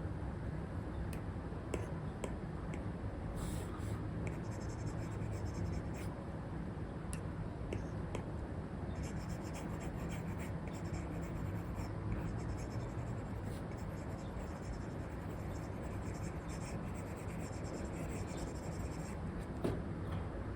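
An Apple Pencil 2 with an Elecom replacement nib drawing on an iPad screen covered with a paper-like film: soft scratching strokes and light taps of the tip, over a steady hiss.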